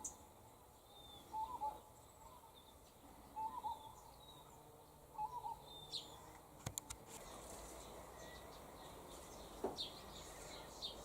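A bird calling with short low notes, four times about two seconds apart, with fainter higher chirps from other birds. A few sharp clicks come about two-thirds of the way through.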